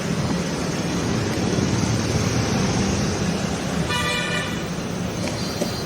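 Steady vehicle engine and road noise with a short horn toot about four seconds in.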